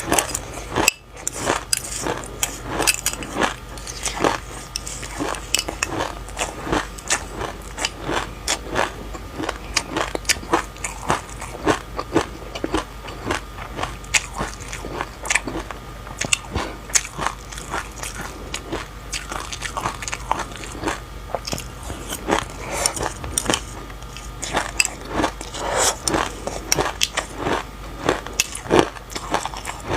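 Close-up chewing of sesame seeds and passion fruit: a dense, continuous run of small crackling crunches, several a second.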